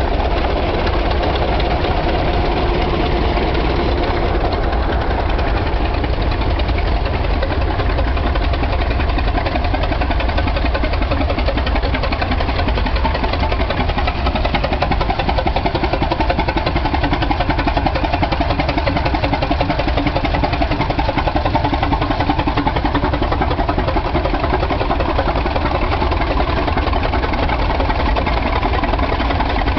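Old tractor engine idling steadily.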